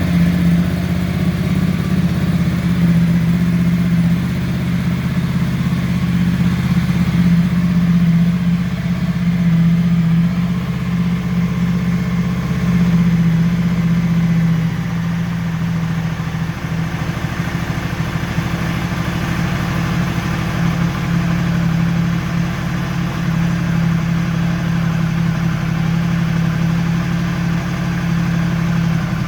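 Ducati Multistrada 1260S's V-twin engine idling steadily on its first run as a new bike, a deep even rumble that drops slightly in level a little past halfway.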